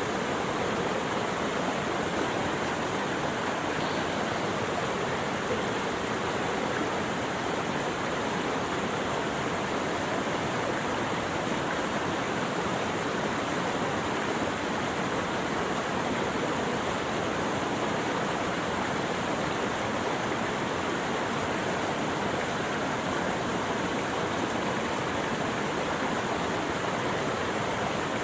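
Steady rushing water, an even, unbroken wash of noise with no distinct calls or splashes.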